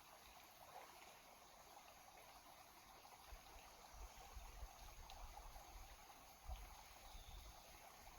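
Near silence: faint outdoor background hiss, with soft low rumbling bumps in the second half.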